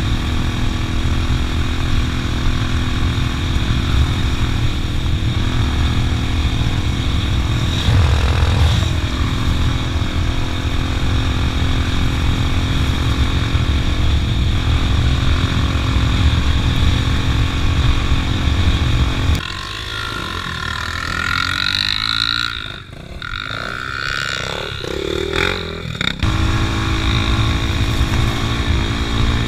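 Motorcycle engine running steadily as the bike is ridden. For several seconds past the middle the engine sound drops away and the sound is quieter and thinner, then the engine comes back.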